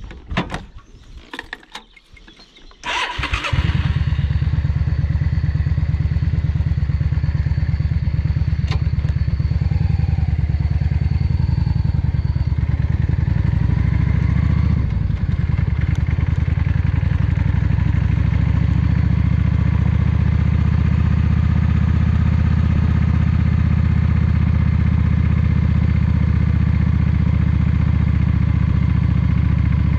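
Yamaha XVS 650 Drag Star's air-cooled V-twin engine starting about three seconds in, then running steadily as the motorcycle rides off.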